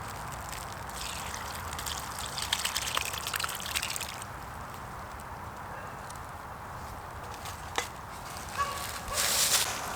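Water trickling and splashing, busiest for the first few seconds and then quieter, with a single sharp click near the end.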